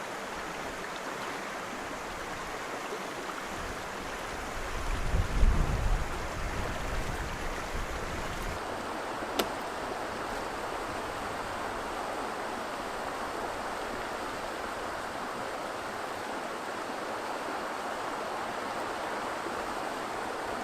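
Steady rushing water of a shallow river rapid. A low rumbling swell rises and falls about five seconds in, and a single sharp click comes a few seconds later.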